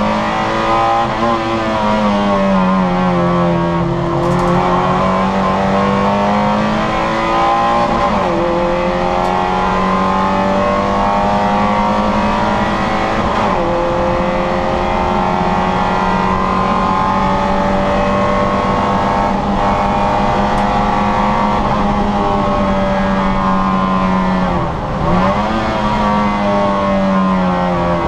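Citroën Saxo VTR's four-cylinder engine running hard at high revs under racing load. The pitch dips sharply and climbs back several times as the gears are changed.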